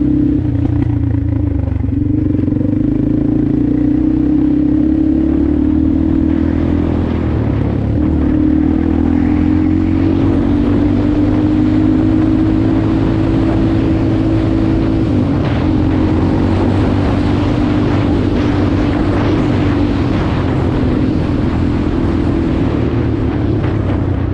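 Motorcycle engine running under way, its note holding fairly steady, dipping briefly about seven seconds in and then climbing slowly. Rough noise thickens over it through the second half.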